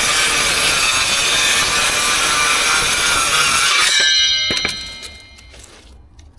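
Cordless circular saw cutting through timber. The cut stops about four seconds in, and the motor whines briefly as it winds down.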